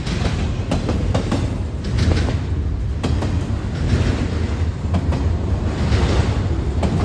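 Train rolling past close by: a steady low rumble of wheels and cars, with sharp clicks as wheels cross rail joints every second or so.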